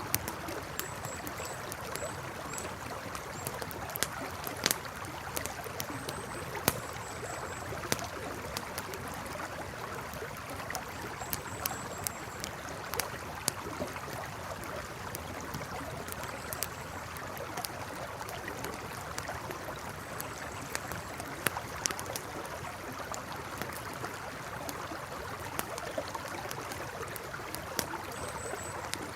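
Campfire crackling with irregular sharp pops over the steady rush of a flowing river. Faint high chirps come in short runs every few seconds.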